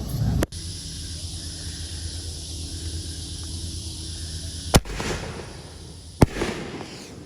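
Fireworks: two sharp bangs about a second and a half apart, each followed by a short crackling fizz, over a steady hiss.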